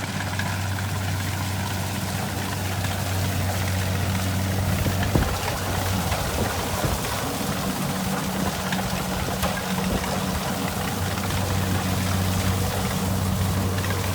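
Kubota rice combine harvester's diesel engine running steadily, a low even hum under mechanical clatter, with a few brief knocks about five seconds in.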